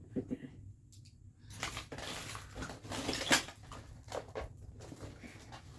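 Rustling and light clattering of household clutter being handled, loudest partway through with a sharp knock about three seconds in.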